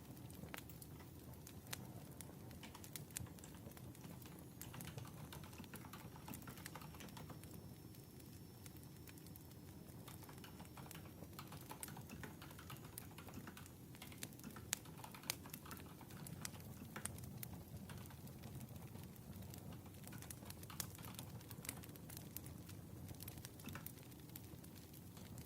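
Campfire sound: a faint, steady low rumble with scattered soft crackles and clicks.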